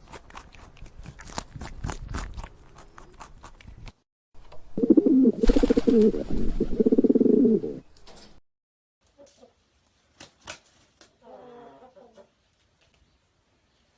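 A bird cooing, loud and pulsing for about three seconds in the middle, with a fainter call later. Light clicks and taps come before it.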